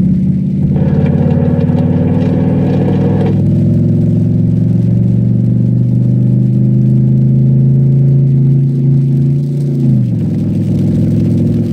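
Cadillac STS-V's supercharged V8 running under load, its pitch climbing slowly, then dropping sharply about ten seconds in.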